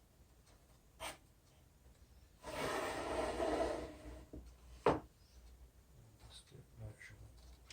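Workshop handling sounds: a click, then a scraping rub lasting about a second and a half, then a single sharp knock.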